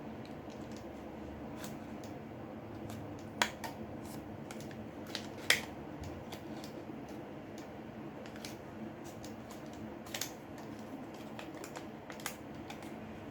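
Scattered small clicks and taps of hand tools and a thin pry card on a smartphone's frame and screen while the display is being worked loose, the two sharpest about three and a half and five and a half seconds in, over a steady low hum.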